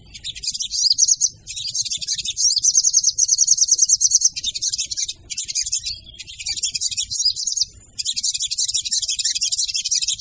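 Female sogon bird calls used as a lure: rapid, very high-pitched twittering trills in long runs broken by a few short pauses.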